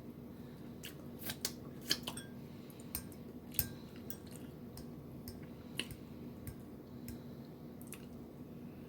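Close-miked eating sounds: irregular sharp clicks and smacks of chewing and of utensils on a plate, a cluster of louder ones between one and two seconds in and another a little past three and a half seconds. A faint steady hum runs underneath.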